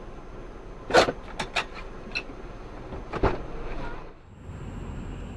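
Car on the move with steady road noise, broken by a loud sharp knock about a second in, a few lighter clicks, and a second sharp knock about three seconds in. The background changes abruptly to a different steady hum just after four seconds.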